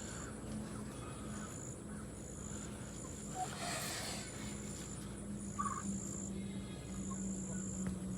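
Outdoor ambience of insects trilling in repeated high bursts over a low steady hum, with a couple of short, soft bird calls about three and a half and six seconds in.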